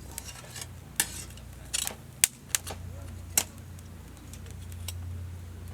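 Wood fire crackling: several sharp, irregular snaps and pops, the loudest a little over two seconds in, over a steady low hum.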